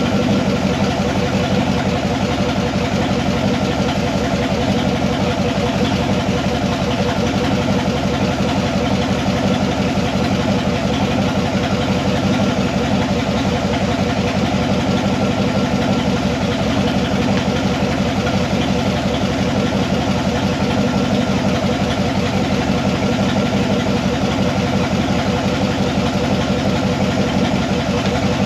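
1976 Corvette's 350 small-block V8 idling steadily with the rebuilt A/C system and its A6 compressor running. The idle stays even throughout, a fast steady pulsing with no revs.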